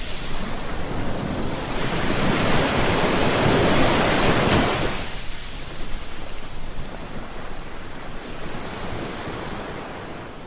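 Ocean surf: a wave of rushing water swells to its loudest about four seconds in, then washes back and fades away.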